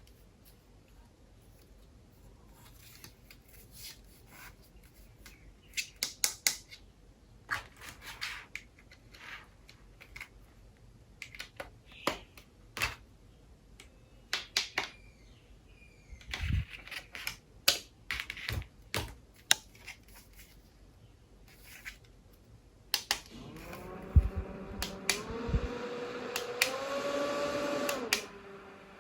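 Plastic clicks and taps of a small USB mini fan being handled. Then the fan's motor starts with a steady whine that steps up in pitch twice as the power button is pressed through its speeds, and it stops near the end.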